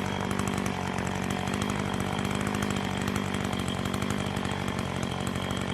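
Chainsaw running steadily at a constant pitch under load, cutting into a fallen tree.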